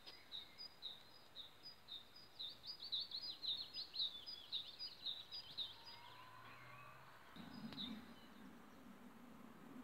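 Small songbird singing faintly: short high notes a couple of times a second that speed up into a quick run of down-slurred notes, then trail off.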